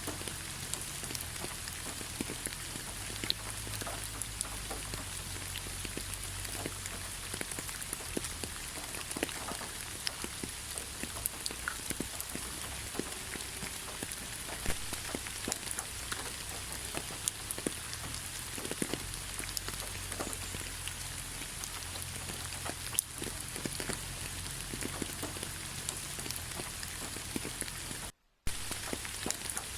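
Steady rain falling on a forest road, with many individual drops ticking close by over an even hiss and a low rumble. Near the end the sound cuts out to silence for a fraction of a second, then resumes.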